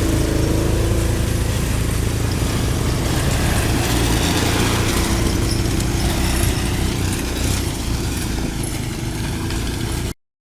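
Motor vehicle engine running steadily, with a steady rushing noise over it; the sound cuts off abruptly near the end.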